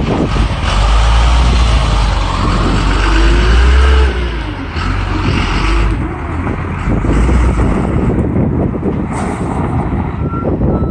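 Water truck's engine running, its pitch rising and falling as it revs, with a reversing beeper starting to sound near the end.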